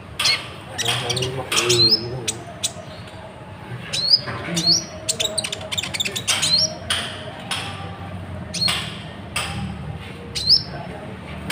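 Bird chirps: short rising calls come about once a second, mixed with sharp clicks.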